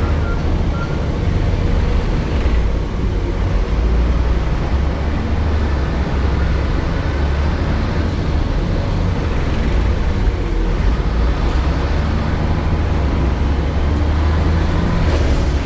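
MAN Lion's City city bus's Euro 4 diesel engine running loudly, with a steady low drone.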